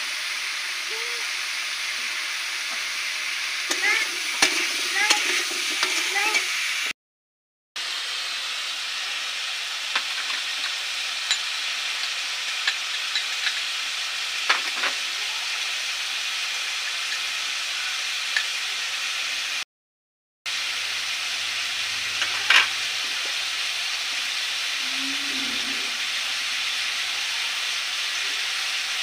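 Cut potatoes frying in a metal kadai, a steady sizzle with scattered clinks and scrapes of metal utensils. The sizzle breaks off briefly twice.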